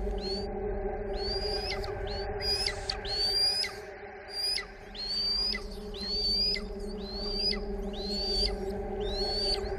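A bird calling over and over: short whistled notes that each rise to a high pitch and then drop away, about one every three quarters of a second, over a steady low hum.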